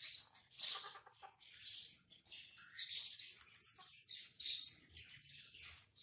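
Caged birds chirping: a busy run of short, high chirps and calls, some rising in pitch.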